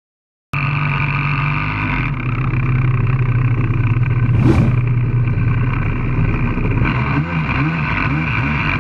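Jet ski engine running at a steady pitch, starting abruptly about half a second in. There is a brief hiss about halfway through, and the engine pitch wavers up and down near the end.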